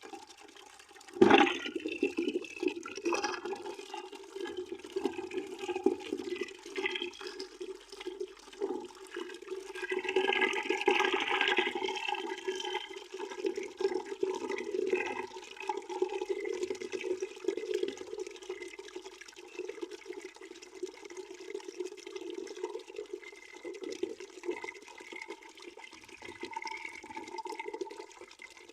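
Water pouring into a bucket. A sudden loud burst comes about a second in, then a steady stream of splashing water that is loudest around ten to twelve seconds in.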